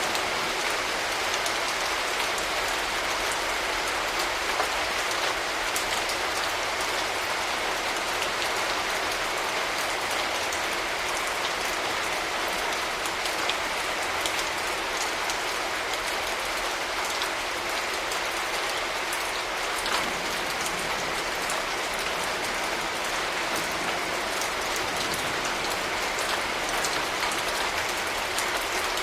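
Steady rain falling, a continuous hiss with many separate drop hits ticking through it. No thunder is heard.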